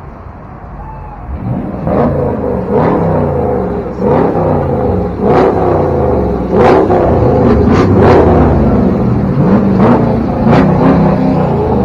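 Car engine being revved hard over and over, its pitch climbing and dropping back about once a second, with sharp pops between the revs.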